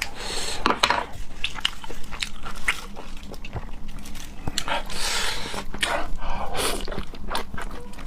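Close-miked wet chewing and smacking of raw seafood, with many small clicks and a few louder slurping sounds.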